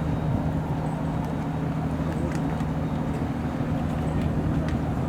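A large engine running steadily, a low even hum with a few faint ticks over it.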